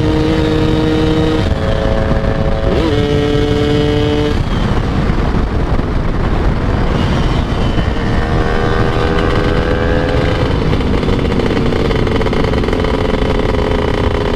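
Two-stroke motorcycle engine, a Yamaha F1ZR, running under way with wind rush on the microphone. Its pitch shifts with gear changes in the first few seconds and climbs as it accelerates about eight seconds in.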